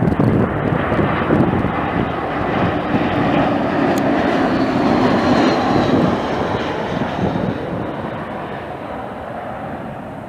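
Jet airliner's engines passing, a broad rumble that fades steadily over the last few seconds as the plane moves away.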